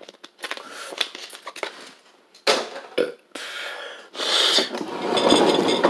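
Close-miked eating noises: chewing and swallowing, irregular and rough. About two and a half seconds in they turn suddenly louder, and louder again from about four seconds in.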